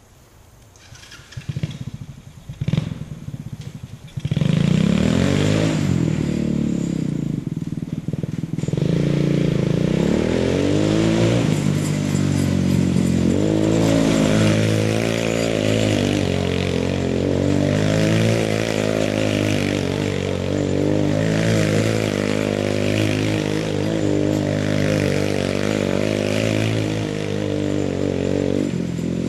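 Yerfdog Spiderbox buggy's engine running and revving, its pitch rising and falling as the buggy is driven. A few clattering knocks come first, and the engine becomes loud about four seconds in.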